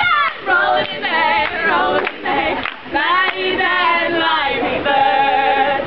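Women's a cappella group singing in harmony, with several voices together. The group holds a long note near the end.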